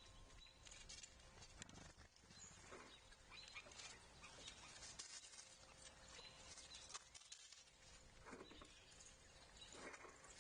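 Faint outdoor ambience at a backyard wildlife feeder: scattered soft clicks, taps and scratches, with a few faint, short, high bird chirps.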